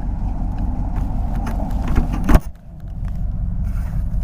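Motorcycle engine running with a steady low rumble. A sharp knock comes a little past the middle, followed by a brief drop in the sound before the rumble returns.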